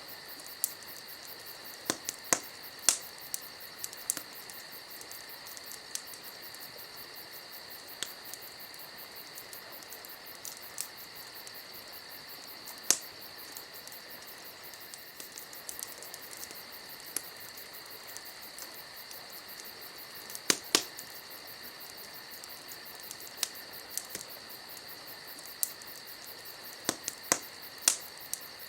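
Campfire crackling, with irregular sharp pops, a few much louder than the rest, over the steady high chirring of crickets.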